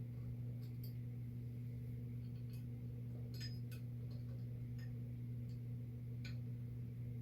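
Steady low electrical hum, with scattered light clicks and clinks of small metal parts and tools being handled during hand assembly.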